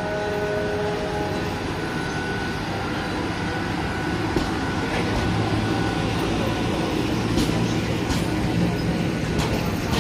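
A train running through the station with a steady rumble, and several sharp clicks of wheels over rail joints in the second half.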